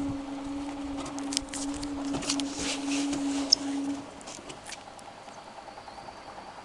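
Washing machine running with water: a steady hum under splashing and sloshing noises, which stops about four seconds in, leaving a quieter, fast, even ticking.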